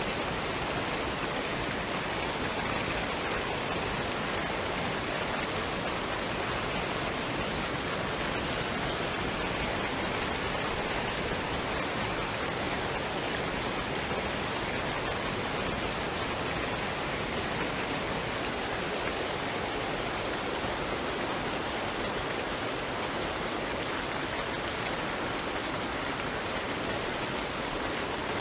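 Waterfall and stream water rushing in a steady, even noise without pauses or changes.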